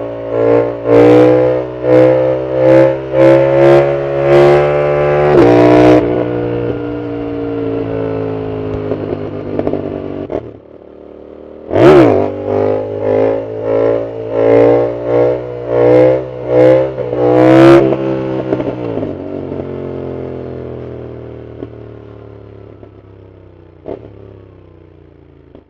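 Yamaha MT-07 parallel-twin with a full aftermarket exhaust revved in quick pulses about twice a second, with sharp cracks, in two bouts. Each bout dies away slowly as the engine speed falls.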